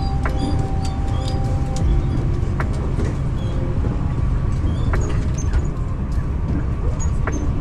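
Passenger train running, heard from inside the carriage: a steady low rumble of wheels on the rails, with an occasional sharp click of a rail joint and some faint steady tones above the rumble.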